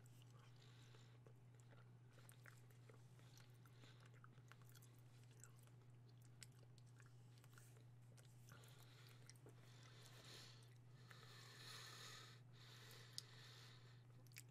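Faint, soft chewing and mouth sounds of someone eating a chocolate truffle: small wet clicks and smacks over a steady low electrical hum.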